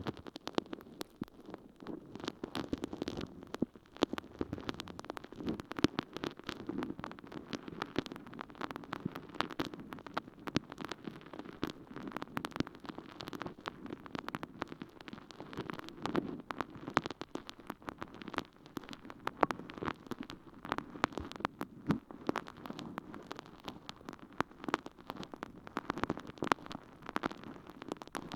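Water-soaked sponge squished and rubbed inside an ear-microphone's ear canal: a continuous wet, squelching crackle made of many tiny pops.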